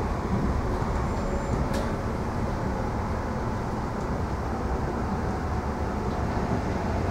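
Steady running noise of an electric suburban train heard from inside the passenger carriage: wheels on the rails and the carriage's constant rumble, with one faint click about two seconds in.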